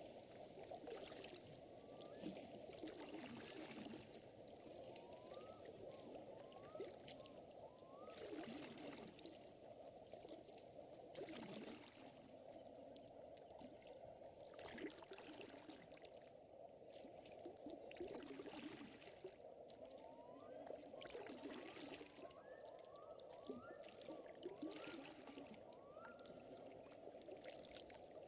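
Faint nature-ambience mix of water running and trickling steadily, with short rising chirps that come in little clusters.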